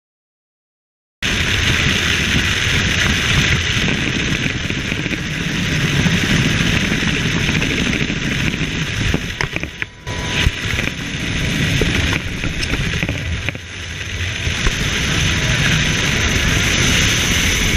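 Helicopter noise: a loud, steady rush of rotor and turbine that starts abruptly about a second in, after silence, and dips briefly twice.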